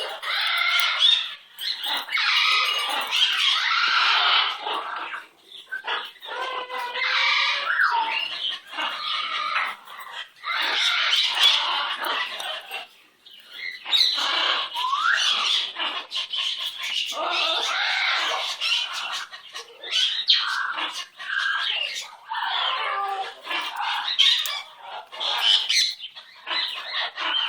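Small pet bird chattering and squawking in long scratchy runs broken by short pauses, with a couple of brief rising whistled notes.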